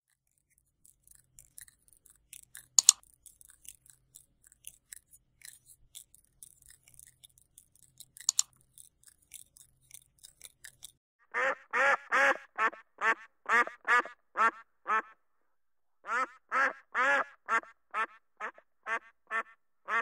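Whooper swans calling: short, loud calls repeated about two to three a second, in two bouts beginning about halfway through. Before them there are only faint scattered ticks and a couple of sharper clicks.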